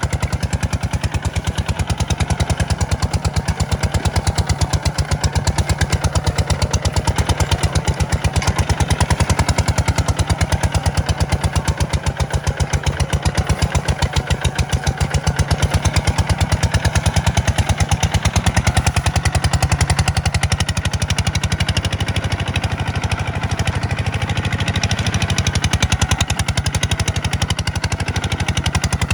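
Kubota tractor's diesel engine running steadily under load while plowing sandy ground, a loud, even chugging throughout.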